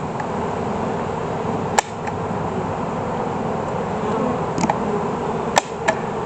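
A steady hum of honeybees around an open hive, with four sharp clicks, one near two seconds in and three in the last two seconds.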